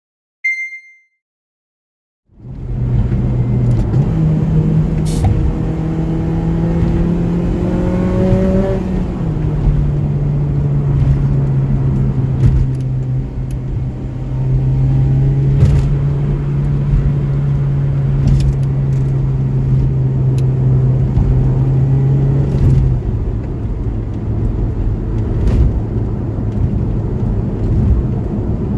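Honda Civic Type R FD2's K20A four-cylinder engine running through an aftermarket Morimori exhaust, fading in after a short high beep. The engine note rises for several seconds, drops back, then holds a long steady drone before changing again near the end.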